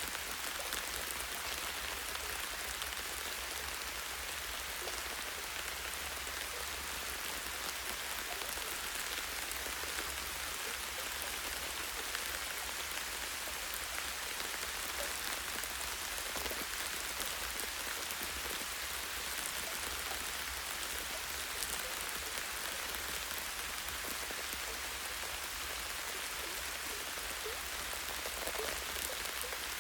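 Light rain falling steadily on tree branches and leaves: an even patter with scattered individual drop ticks, over a steady low rumble.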